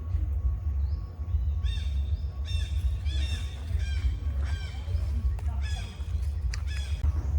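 Repeated high-pitched animal calls, several overlapping, growing busier from about two seconds in, over a steady low rumble.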